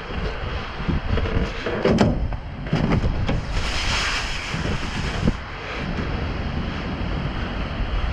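Wind buffeting the microphone in a steady low rumble, with a few sharp knocks about two seconds in and a burst of hiss from about three and a half to five seconds.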